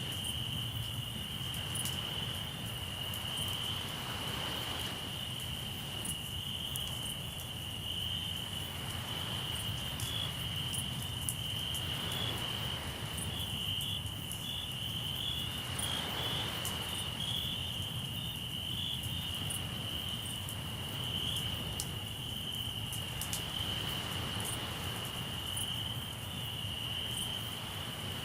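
Crickets chirping steadily in a continuous high band, over a campfire's scattered crackles and pops. Broad swells of wave noise wash in several times, a few seconds apart.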